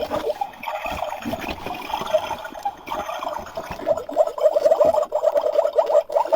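Small amount of water bubbling and trickling in quick little pulses, fading somewhat in the middle and growing busier again about four seconds in.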